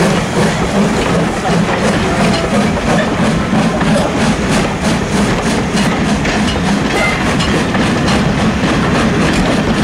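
Steam train on the move: a loud, steady running noise with faint regular beats through it.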